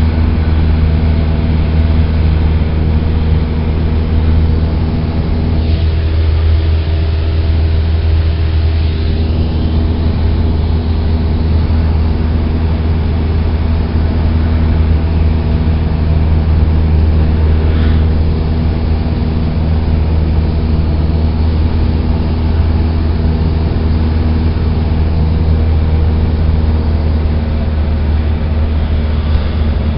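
Cessna 172's four-cylinder piston engine and propeller, a loud steady drone with a low, even hum.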